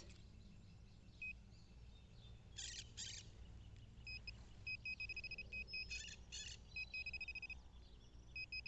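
Metal detector beeping over a buried target: a high steady tone in short pulses, then held longer as it closes in, signalling a small metal object in the hole. Brief scrapes of digging in soil come between the beeps.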